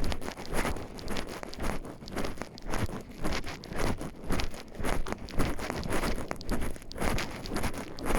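Footsteps crunching on a forest path at a steady walking pace, about two steps a second.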